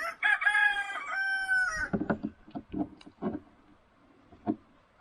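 A rooster crowing once, a cock-a-doodle-doo ending on a long held note, over the first two seconds. After it come a series of irregular knocks and taps.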